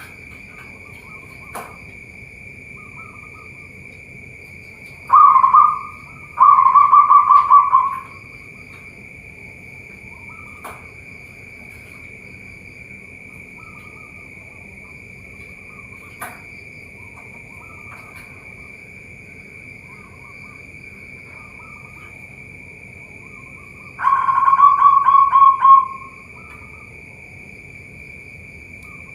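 Zebra dove (perkutut) cooing, a loud pulsing coo heard twice in quick succession about five seconds in and again about 24 seconds in. A steady high insect drone runs underneath.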